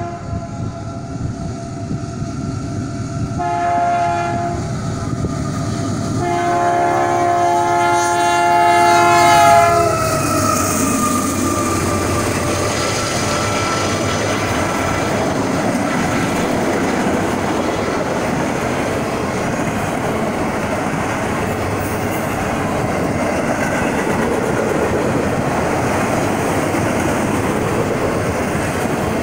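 Freight train at a grade crossing: the locomotive's air horn sounds a chord of several notes, first a short blast about three seconds in, then a long blast that drops in pitch as the engine passes about ten seconds in. After that comes the steady rumble and clatter of a long string of autorack freight cars rolling by.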